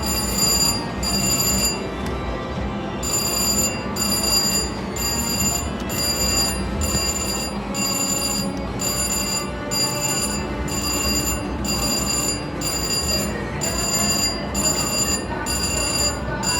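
Slot machine's electronic bell-like ringing, repeating in short pulses about twice a second, with a brief pause about two seconds in, over steady casino-floor background noise.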